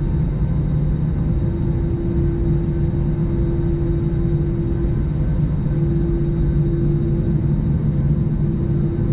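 Steady low rumble of an Airbus A321 airliner, with a constant mid-pitched hum over it.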